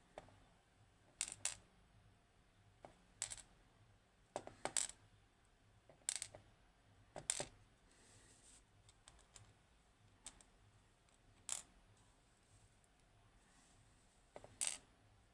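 Small metal lock parts and tools clicking and clinking on a work surface as the lock's pins are taken out: about a dozen sharp, irregular clicks, some in quick pairs.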